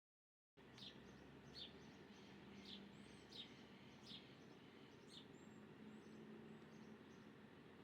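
Small birds calling: a series of short, sharp, falling chirps roughly once a second, with fainter thin, high notes, over a low steady hum. The sound cuts in abruptly about half a second in, and the sharp chirps stop about five seconds in.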